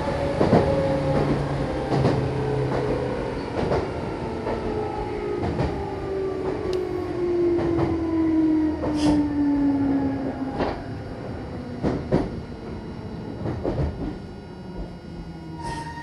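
Meitetsu electric train running on the Bisai Line: a motor whine falls steadily in pitch over about ten seconds as the train slows, over the rumble of the wheels and sharp clicks from the rail joints.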